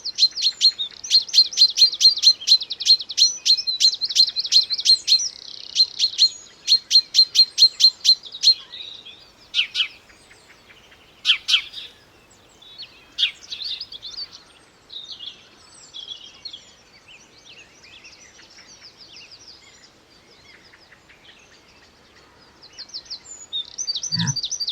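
A bird calling in a rapid series of high, sharp chirps, about four a second, with a short break about five seconds in. Then come scattered, fainter chirps and calls.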